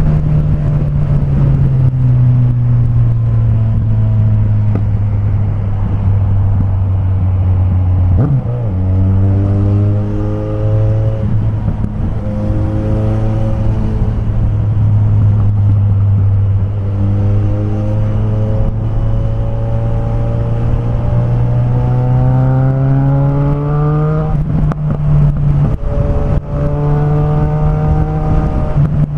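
Suzuki Bandit 1250's inline-four engine running through a straight-pipe exhaust with no muffler. The engine note eases down in the first couple of seconds, holds steady with a short break about eight seconds in, then climbs to a higher pitch a little after twenty seconds.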